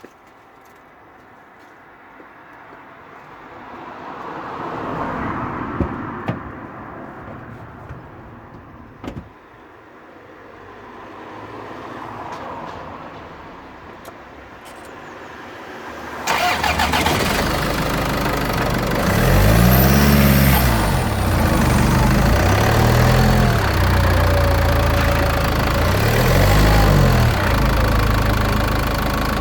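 Land Rover Freelander 2 engine heard up close from under the car near the front differential: after a quieter stretch it starts suddenly a little past halfway, then runs with its low pitch rising and falling several times.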